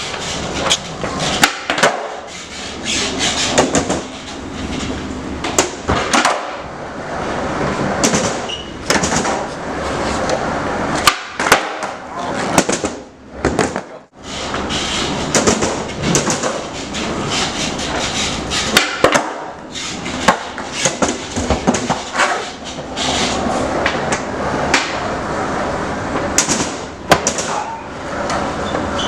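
Skateboard rolling, with many sharp clacks of the board popping, landing and slapping the floor at irregular intervals.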